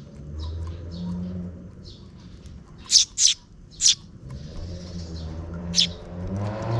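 Sparrows chirping while a parent feeds its two chicks: faint short chirps throughout and four loud sharp chirps, three in quick succession about halfway and one more near the end. A low steady rumble runs underneath.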